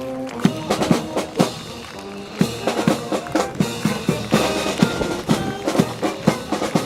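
Brass band playing, with pitched wind notes over a steady drum beat of about two strikes a second.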